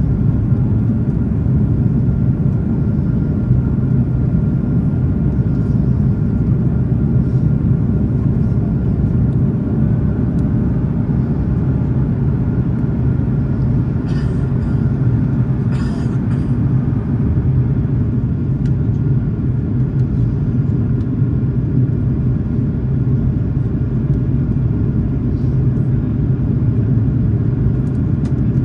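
Steady cabin noise inside an Airbus A330-300 airliner during the climb after takeoff: a constant low rumble of the engines and rushing air, with a faint steady whine and two brief faint clicks about halfway through.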